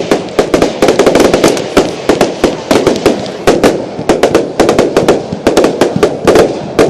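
Bonfire Night fireworks going off in a rapid, irregular barrage of sharp bangs and crackles, several a second without a break.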